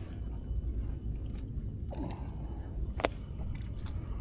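Scattered clicks and crunchy handling noise over a steady low rumble, with one sharp click about three seconds in, as fishing gear is handled while a small snapper is landed.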